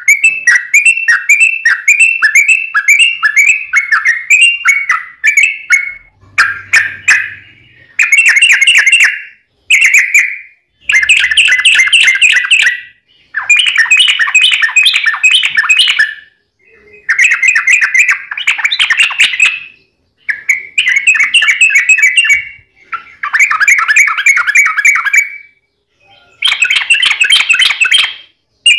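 Yellow-vented bulbul (trucukan) singing in long runs of bubbly, chattering phrases. Each phrase lasts one to three seconds, with short pauses between them.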